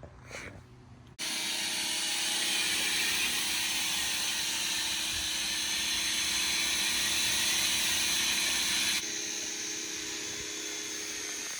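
Pressure washer spraying water at a car: a steady hiss with a motor hum underneath. It cuts in sharply about a second in and drops to a lower level near the end.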